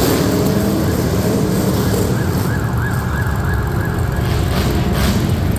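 Competition truck engine running loud and steady, with a quick repeating warbling tone above it.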